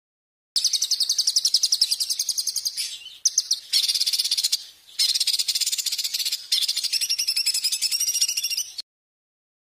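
Songbird singing a fast, high-pitched chattering trill of rapidly repeated notes, in several phrases with brief breaks, cutting off abruptly near the end.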